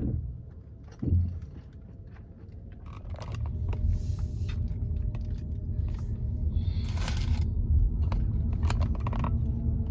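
Low steady rumble of a car driving, heard from inside the cabin, growing louder about three seconds in, with a thump about a second in and a short hiss around seven seconds.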